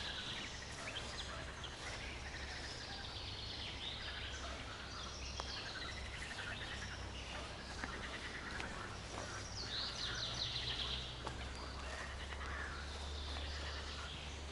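Several songbirds singing in a forest: repeated trills and chirps, busiest around ten seconds in, over a low steady rumble.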